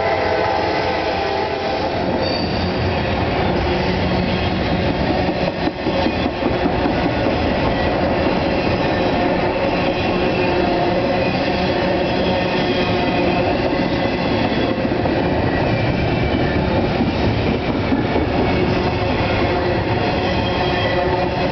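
Double-stack intermodal freight train's well cars rolling past, a steady rumble and clatter of wheels on rail with a faint wheel squeal. The tail of the locomotive horn fades out in the first second or two.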